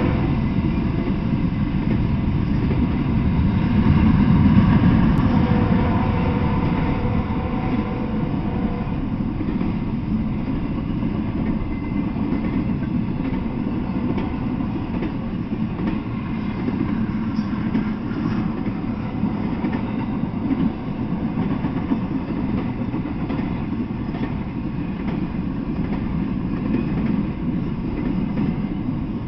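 Intermodal freight train of container and trailer flatcars rolling past at close range: a steady rumble with the clatter of wheels on the rails, loudest about four to five seconds in.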